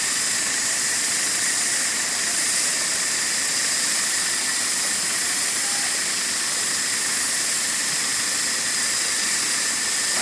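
Steady hiss of working machinery, even and unchanging, with no rhythm or separate knocks.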